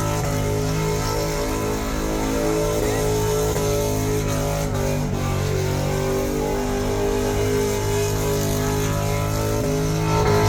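Car engine running at high, fairly steady revs, typical of a burnout.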